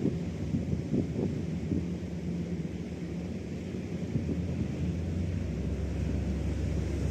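Boat engine running with a low, steady hum that grows slightly louder about five seconds in, while wind buffets the microphone in gusts.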